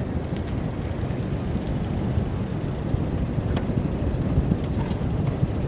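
Wind buffeting the microphone, an uneven low rumble with a few faint ticks.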